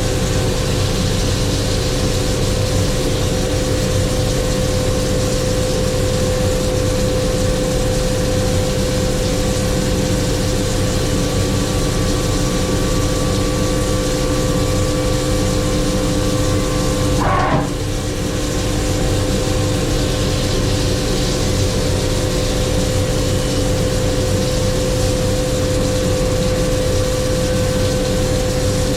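Haas DM-1 CNC vertical machining center running under power: a steady machine hum with a constant whine. There is a brief break in the sound about two-thirds of the way through.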